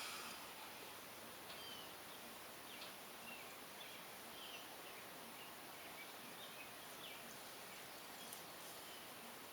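Faint, scattered short bird chirps over a steady low hiss, with a soft rustle right at the start and another near the end.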